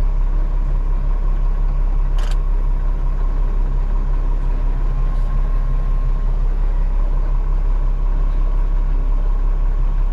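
Farm machine's engine running steadily, heard from inside the cab, with a faint steady whine over the hum. A single sharp click about two seconds in.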